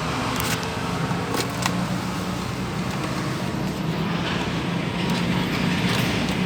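A steady low mechanical hum with a few short clicks.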